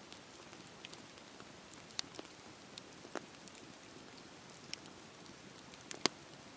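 Wood campfire crackling: a steady low hiss with scattered sharp pops, a loud one about two seconds in and the loudest near the end.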